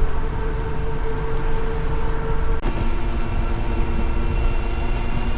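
Motorcycle running while being ridden, with a dense low rumble. About two and a half seconds in, the held engine tone changes abruptly to a lower one.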